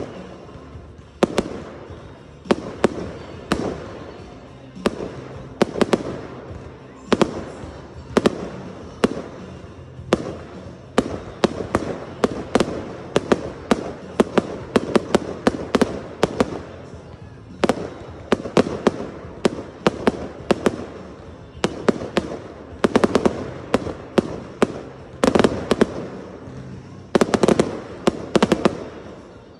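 Fireworks display: aerial shells bursting one after another with sharp bangs and crackle, in irregular volleys. There is a rapid run of bangs near the end.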